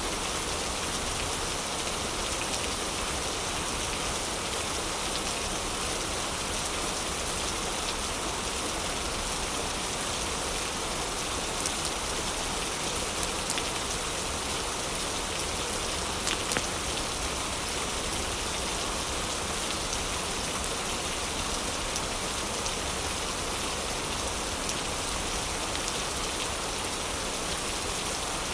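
Heavy rain falling steadily, an even hiss of drops. A few faint crackles from a wood fire come through between about twelve and seventeen seconds in.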